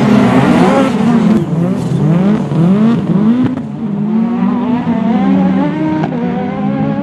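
Rally car engine at full throttle, its revs climbing and dropping several times in quick succession, then climbing more steadily.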